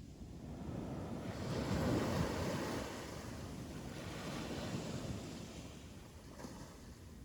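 Ocean waves breaking on a beach: the surf swells about a second in, peaks around two seconds, then washes out and fades, with some wind on the microphone.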